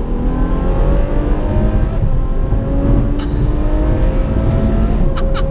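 Ferrari F12's naturally aspirated V12 through an IPE Innotech exhaust, accelerating hard to overtake, its pitch climbing steadily.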